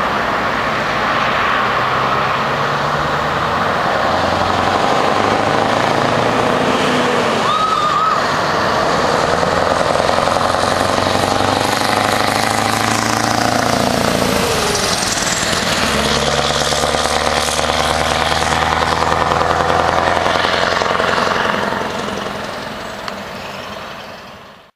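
Scania R500 V8 truck engine with an open, straight-piped exhaust, revving and pulling away. Its pitch drops and climbs again about two-thirds of the way through, and it fades out near the end as the truck drives off.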